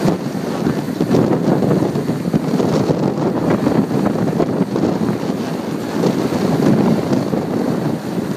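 Wind buffeting the microphone on a sailboat under way: a loud, uneven rumbling noise.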